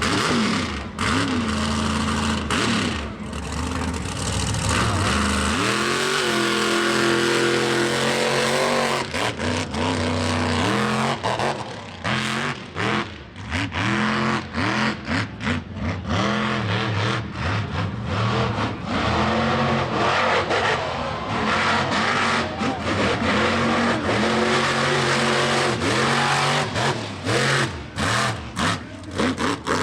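Mega mud truck's big engine revving hard at full throttle through a mud bog, its pitch rising and falling again and again, with many brief dips in level.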